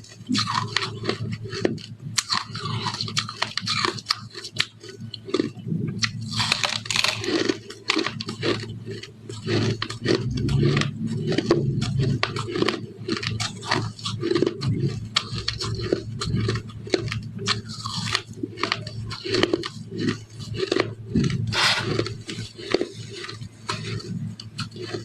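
Frozen ice sticks being bitten and chewed close to the microphone: a dense, irregular run of sharp ice crunches, many a second, with no pause.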